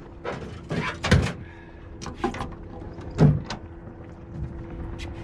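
Several knocks and thumps from handling in a fishing boat, the loudest about three seconds in, over a steady low hum.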